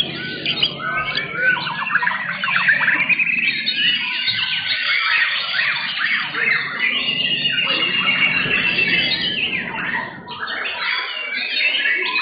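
White-rumped shamas (murai batu) singing in competition: a dense, continuous overlap of loud whistled phrases, trills and rapid chattering runs.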